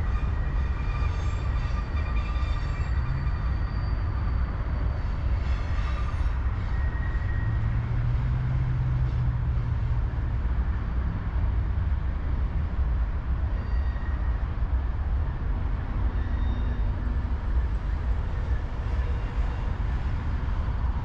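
Freight train rolling by with a steady heavy rumble, with thin high-pitched wheel squeals during the first six seconds or so.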